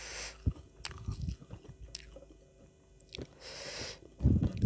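Close-miked chewing and biting of a mouthful of food, irregular, with a louder burst of chewing near the end.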